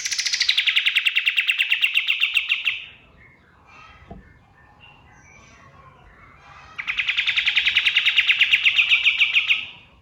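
Kapas tembak (katem) songbird giving two long, rapid, pulsing trills about four seconds apart. The first opens high and drops quickly to a steady pitch. Faint calls come in between.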